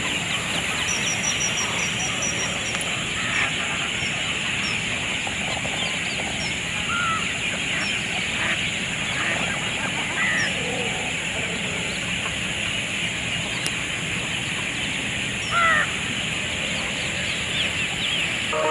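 Birds calling over a dense, steady high-pitched drone. A quick run of high notes comes near the start, and short calls are scattered through, the loudest about sixteen seconds in.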